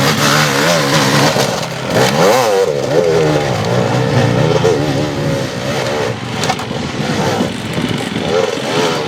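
Enduro motorcycle engine revving in repeated throttle blips, its pitch rising and falling, with one sharp rev up and back down about two seconds in.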